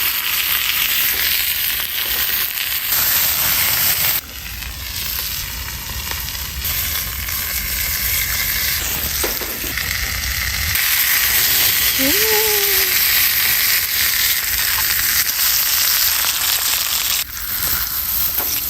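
Beef steak sizzling as it grills over an open wood fire, a steady dense hiss whose level changes abruptly a few times.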